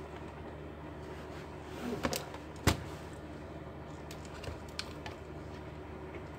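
Scattered clicks and knocks from handling laptop parts during a repair, with one sharper knock about two and a half seconds in and a few light ticks later, over a steady low hum.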